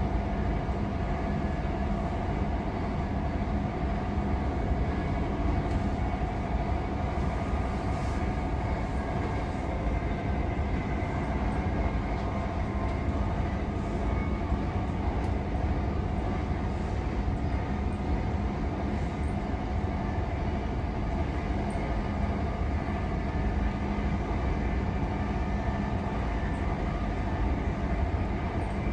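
c2c electric passenger train running at speed, heard from inside the carriage: a steady rumble of wheels on track with a constant whine over it.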